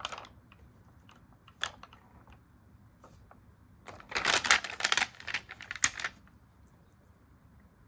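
Sticker sheets and journal paper being handled by hand: a few light taps and ticks, then about two seconds of dense, crackly paper rustling about four seconds in.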